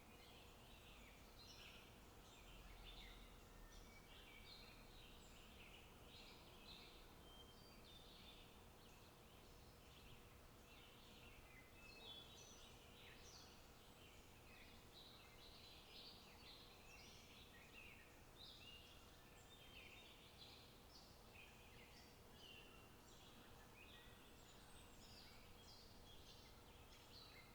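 Faint open-country ambience with small birds chirping and twittering throughout in many short calls.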